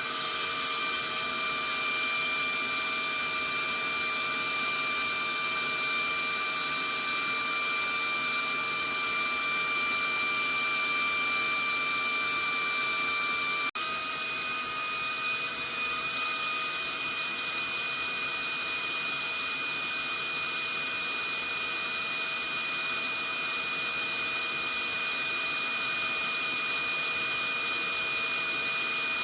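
Vacuum cleaner running steadily: a constant rushing hiss with a high motor whine. About halfway through it drops out for an instant and resumes slightly louder, with the whine at a slightly different pitch.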